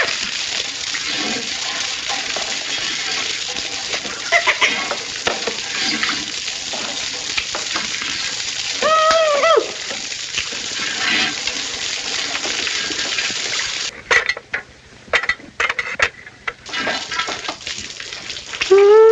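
Water hissing and spraying steadily from leaking plumbing, with a short, arching vocal cry about nine seconds in. Near the end the hiss stops and a few sharp knocks or clanks follow, then another brief cry.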